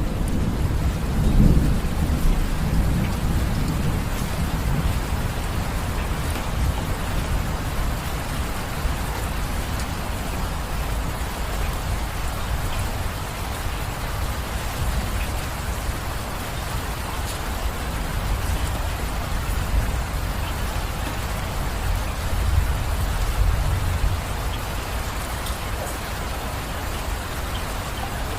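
Steady rain falling, with low rolling thunder in the first few seconds that dies away, and another brief low rumble later on.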